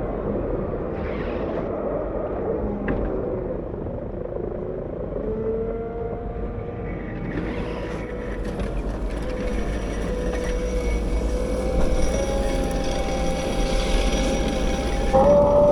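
Caterpillar 908 compact wheel loader running while plowing snow: a steady diesel rumble with a whine that slides up and down in pitch as the machine works, rising a step just before the end.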